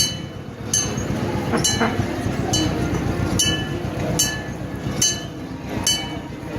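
Ride vehicle's engine running with a low rumble, under a sharp metallic ringing clink repeated evenly about once every 0.8 seconds.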